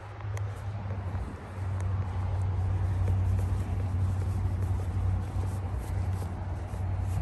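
A car engine running with a steady low hum, growing louder about a second and a half in.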